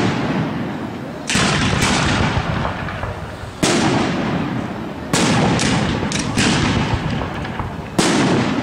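Aerial firework shells bursting one after another, about eight loud bangs, each trailing off over a second or so before the next.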